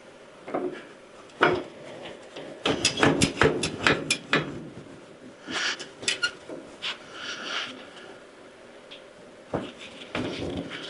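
Hand work with tools and metal parts: scattered knocks, clinks and scrapes, with a quick run of clicks and rattles about three to four seconds in.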